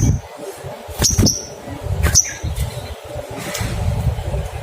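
Olive-backed sunbird giving short, sharp, high 'cuit' chirps about once a second, over a low rumbling background.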